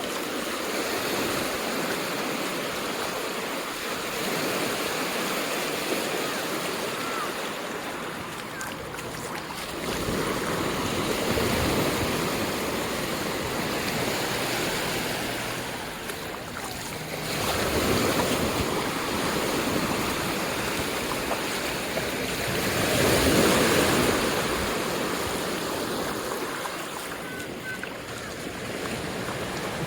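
Ocean surf breaking and washing up the beach: a steady rush that swells three times as waves come in, the loudest swell about three quarters of the way through.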